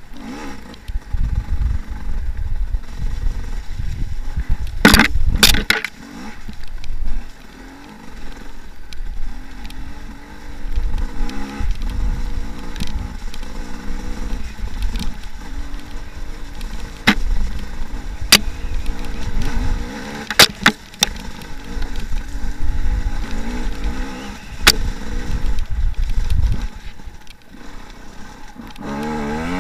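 Enduro dirt bike engine running and revving up and down over a rough trail, under a heavy low rumble. There are sharp knocks every so often, the loudest about five seconds in, and the revs climb near the end.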